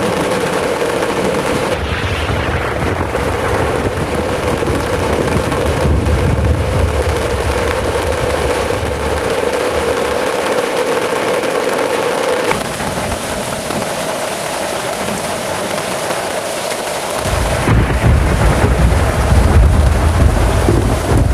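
Heavy rain pouring down hard in a thunderstorm, with low rumbling swells a couple of seconds in and again near the end, the last one the loudest.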